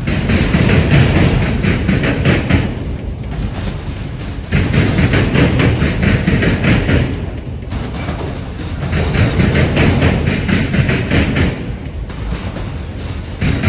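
Freight train of autorack cars rolling slowly across a railroad diamond crossing, the wheels clattering over the crossing in loud surges about every four seconds.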